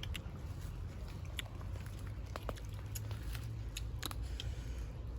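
Close-up chewing of crunchy raw green mango: scattered short crunches and mouth clicks over a steady low hum.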